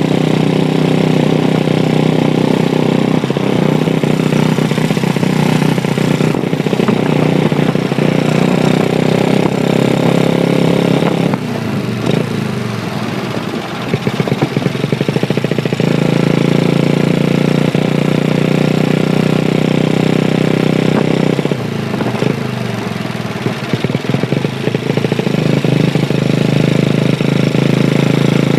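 Honda Chaly minibike's Wave 100 single-cylinder four-stroke engine running steadily under way. It eases off twice for a few seconds, about twelve seconds in and again about twenty-two seconds in, then pulls steadily again.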